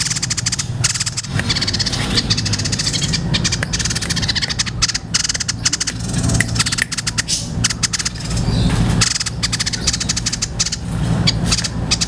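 White-chested babbler (tepus dada putih) singing a long, fast chattering song of rapid clicking notes in runs with short breaks, over a steady low hum.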